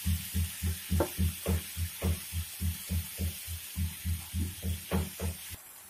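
Prawns frying in mustard oil in a pan: a steady sizzle with a regular low pulsing about three to four times a second. Both stop abruptly near the end.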